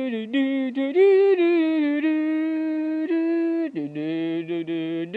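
A voice humming a tune in held notes that step up and down. Near the end a second, lower note sounds underneath the melody.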